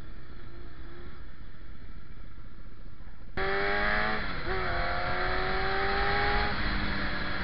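Motorcycle engine running at low revs, then, after an abrupt jump in loudness a little over three seconds in, accelerating: a rising engine note, a brief dip at a gear change, then rising again, over wind noise.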